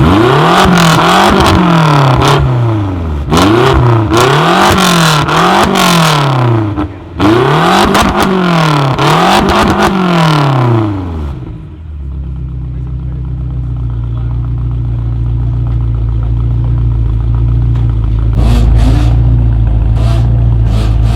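A tuned car's engine being revved hard in quick repeated blips, each rise and fall in pitch, with sharp cracks from the exhaust, for about eleven seconds. It then drops to a low, steady idle, with a couple of small blips near the end.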